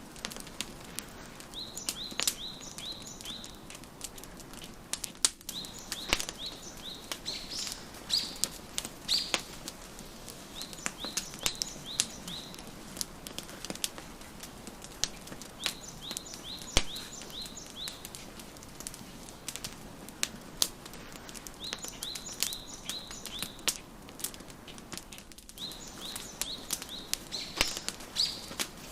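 Wood fire crackling with frequent sharp pops over a soft steady hiss, while songbirds chirp in short quick series every few seconds.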